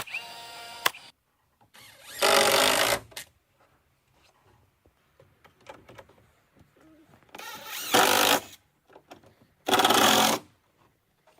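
A power tool run in three short bursts of about a second each, with quiet pauses between, the second and third close together. The tail of background music ends about a second in.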